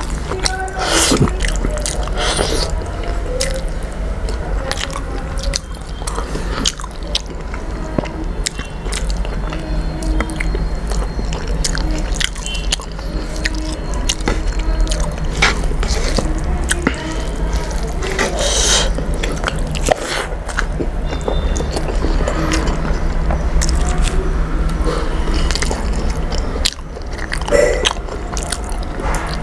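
Close-miked chewing and mouth sounds of a person eating rice and fish curry by hand, with many small wet clicks, over background music.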